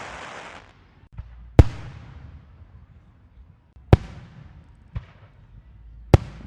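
Fireworks going off: a crackling burst dies away in the first half-second, then four loud single bangs one to two seconds apart, each trailing off in an echo.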